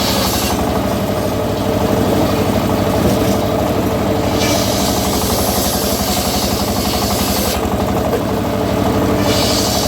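The engine of a home-built circular sawmill running steadily, with a fast, even pulse. A high hiss of the blade cutting teak comes in a few seconds in and again near the end.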